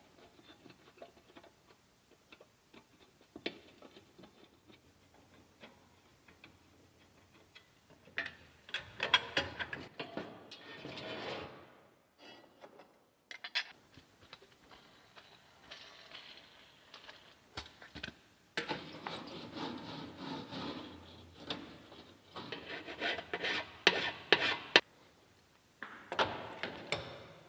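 Hand work in a workshop: spells of rubbing and scraping with scattered clicks and knocks, the first starting about eight seconds in, a longer one in the second half and a short one near the end.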